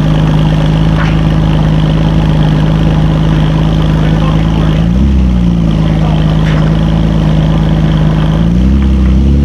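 Car engine idling steadily, blipped twice: a short rise and fall in revs about five seconds in, and another rise in revs near the end.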